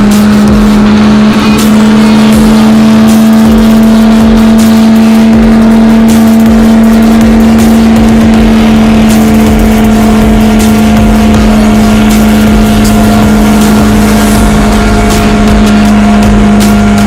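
Pickup truck engine running at a steady high speed, one constant droning pitch held throughout.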